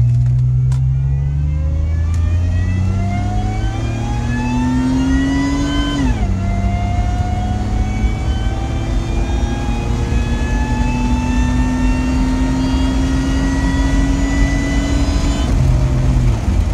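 Supercharged Honda Pilot's J-series V6, heard from inside the cabin under hard acceleration at about 1 psi of boost. The engine climbs in pitch, drops sharply at an automatic upshift about six seconds in, climbs again more slowly, then falls as the throttle is lifted near the end. The owner judges the air-fuel ratio under this boost too lean, with the fuel injectors maxed out.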